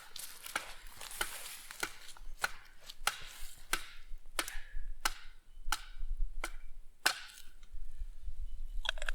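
A series of sharp cracks or knocks, roughly one every half second to second, over a low rumble of wind on the microphone.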